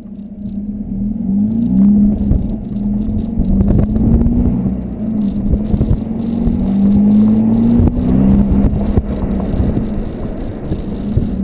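Volkswagen Golf TDI's 2.0-litre four-cylinder turbo-diesel running through a 3-inch Cortek exhaust with high-flow cat, under acceleration: the exhaust note rises in pitch several times, dropping back between each rise, with some light rattling.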